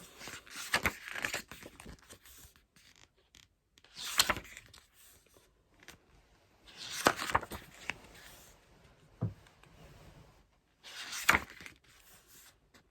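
Album photo cards and their paper or plastic packaging being handled: rustling and scraping in short bursts, about four of them a few seconds apart.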